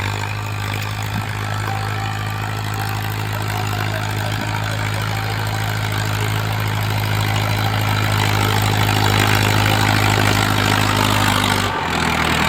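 Mahindra tractor's diesel engine running steadily, with a brief change in its note near the end.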